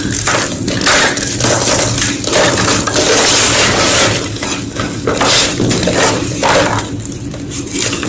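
Soft, powdery gym chalk being crushed with repeated crunches and crumbling, including a longer stretch of continuous crumbling partway through.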